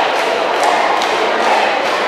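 Large crowd cheering and chanting over a rhythmic beat of claps or drums, about two beats a second.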